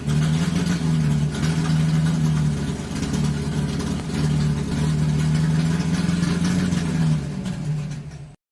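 A vehicle engine running steadily, its pitch rising and falling slightly, then cutting off suddenly near the end.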